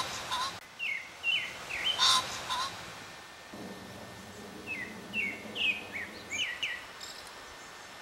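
Birds calling in repeated short falling chirps, in groups of two or three. Two louder, harsher calls come near the start and about two seconds in.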